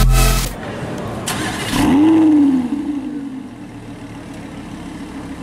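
Electronic dance music cuts off in the first half second. About two seconds in, a Lamborghini Huracán LP610-4's V10 engine starts, its revs flaring up and dropping back, then settles into a steady idle.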